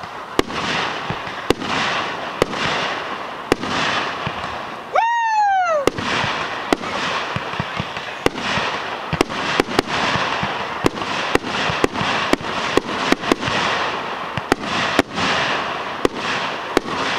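Fireworks display: aerial shells bursting in a string of sharp bangs over a continuous background din, the bangs coming faster in the second half. A single falling whistle sounds about five seconds in.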